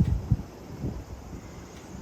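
Wind buffeting the microphone: irregular low rumbling gusts, strongest in the first half second, then easing into a steadier rumble.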